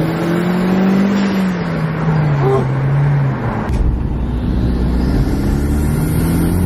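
Hyundai Genesis Coupe 2.0T's turbocharged four-cylinder, fitted with a K&N cold air intake, pulling under acceleration. The pitch rises, falls away for a couple of seconds, then climbs again, with a sharp click in the middle.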